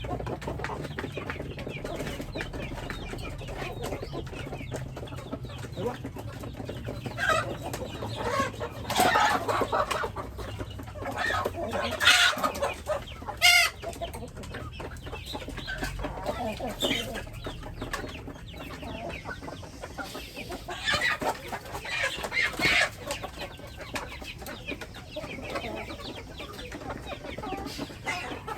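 A flock of chickens clucking, with a run of louder calls in the middle and again later on.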